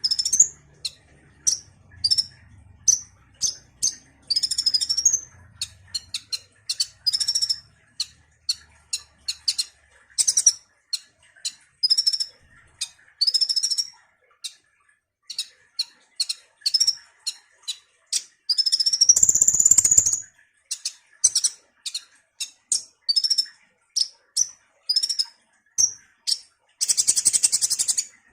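Sunbird (kolibri) song: a run of short, high chirps and quick twittering phrases, broken by a longer rapid trill about two-thirds of the way through and another near the end.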